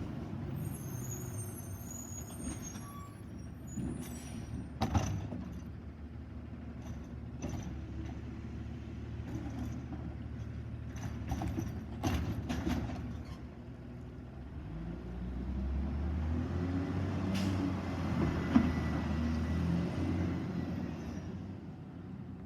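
Autocar Xpeditor automated side-loader garbage truck running, with several sharp knocks and clanks. The engine grows louder about two thirds of the way through.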